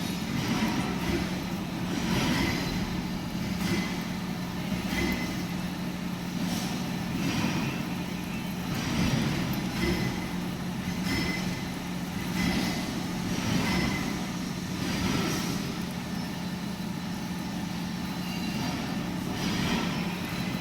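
Milling machine running with a steady motor hum, its noise swelling and easing in an even rhythm about every second and a half.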